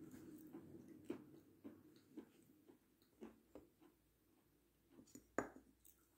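Close-miked chewing with the mouth closed: faint, scattered wet mouth clicks and smacks every half second or so, with one louder smack about five seconds in.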